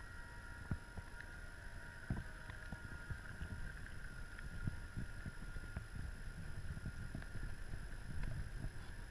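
Electric motor of a radio-controlled model boat running with a steady whine, with irregular low knocks of wind buffeting the microphone.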